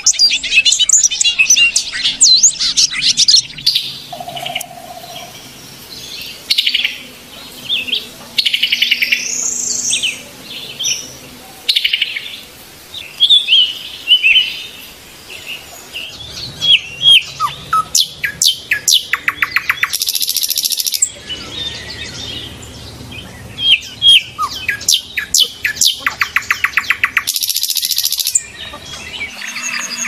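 Several small aviary birds chirping and calling over one another, with short trills and, twice in the second half, rapid runs of quickly repeated notes.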